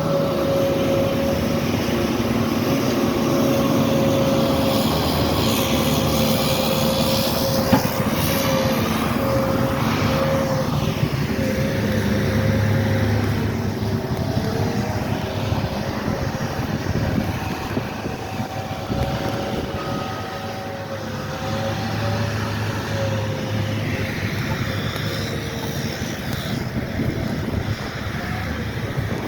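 Skid-steer loaders working in snow: engines running steadily with a held whine that wavers a little in pitch.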